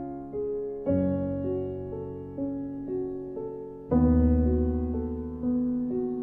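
Slow, soft piano music: single notes fading one into the next, with a deep chord about a second in and another louder one near four seconds.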